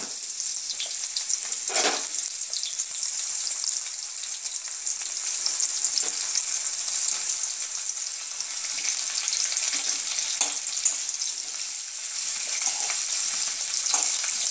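Sliced onions and ginger sizzling steadily in a little hot oil in a metal wok, with a few short scrapes and clicks of a metal spatula stirring them.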